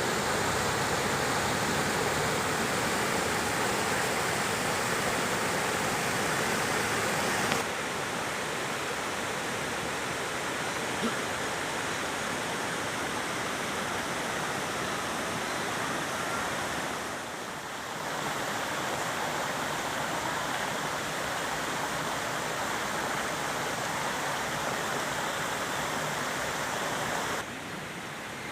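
Steady rush of flowing water. It steps down in level about seven and a half seconds in and again near the end, with a short dip a little past halfway.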